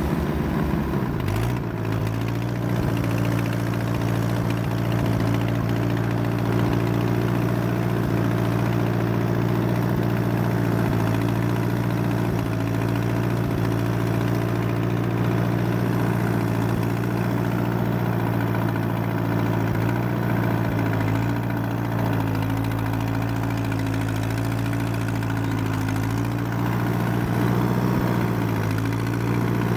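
Allis-Chalmers D14 tractor's four-cylinder engine running steadily, its note shifting and settling about a second and a half in.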